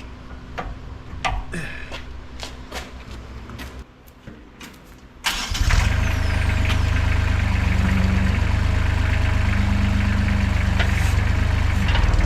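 A few light clicks and knocks, then about five seconds in the KRT ST900HD mini skid steer's engine starts and runs steadily.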